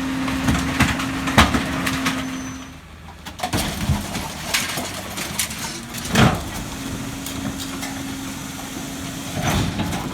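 McNeilus rear loader garbage truck working its hydraulics: a steady low hum that cuts out about three seconds in and comes back later, with sharp knocks and clunks every few seconds.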